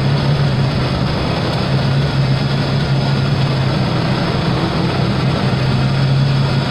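Ford Bronco II's 2.9-litre V6 idling steadily with a low, even hum. The engine has overheated and is losing coolant, and the mechanic suspects something is wrong inside it.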